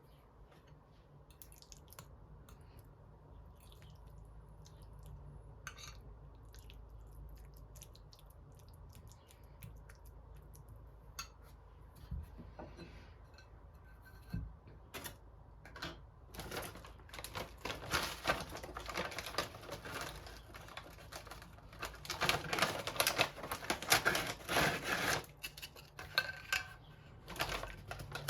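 Light clicks, taps and rustling of small household objects being handled, sparse at first and then busier and louder in the second half.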